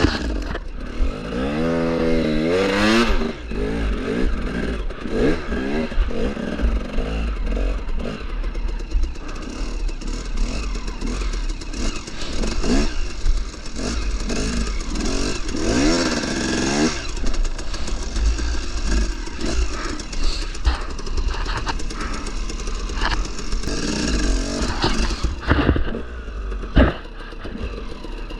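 KTM 300 two-stroke dirt bike engine being ridden hard, revving up and down again and again as the throttle is worked.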